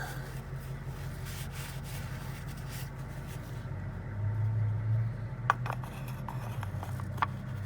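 Ford Escape V6 engine idling with a steady low hum, swelling briefly about four seconds in, while the fresh oil circulates through it; a couple of sharp clicks near the end.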